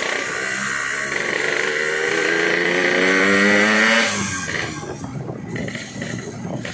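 Yamaha RX-King two-stroke single-cylinder engine with a gutted, baffle-less exhaust, accelerating with its pitch rising for about four seconds. Then the throttle shuts and it drops to a rough, uneven run.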